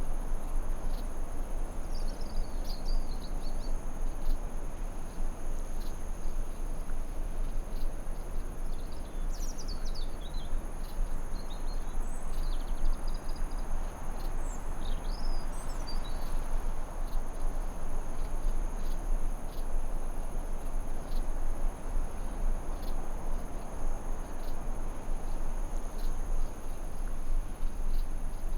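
Forest ambience: a steady high-pitched insect drone over a constant hiss, with a few short bird chirps and warbles between about two and sixteen seconds in.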